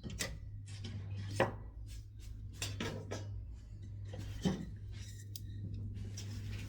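Pine scrap wood burning in a wood stove, crackling with irregular snaps and pops, two of them louder, about a second and a half in and near four and a half seconds in, over a steady low hum.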